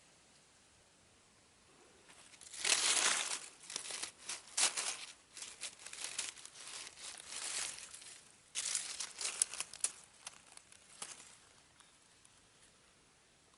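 Dry forest-floor litter rustling and crackling in irregular bursts, starting about two and a half seconds in, loudest at first and dying away after about eleven seconds.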